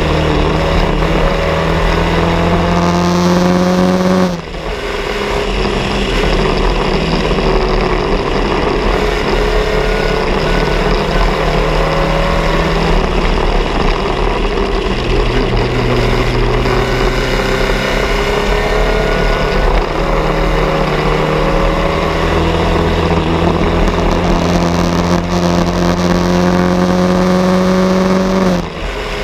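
Bianco race car's engine running hard under load, its pitch climbing slowly and steadily, then dropping off suddenly about four seconds in as the driver lifts or shifts. It pulls again in a long, slow climb that breaks off the same way near the end, over a steady hiss.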